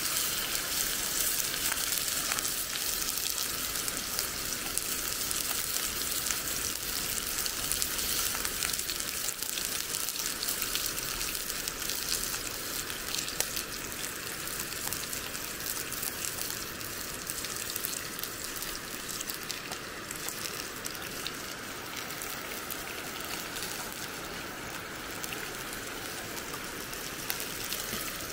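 Food sizzling in hot cast iron over a campfire: a dense, steady crackle that eases slightly about halfway through.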